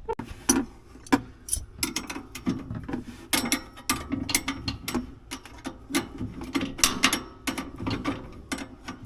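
Hand tools clicking and clinking on metal in a run of irregular sharp clicks, as work starts on the bolt and locking nut of a camper's landing gear linkage.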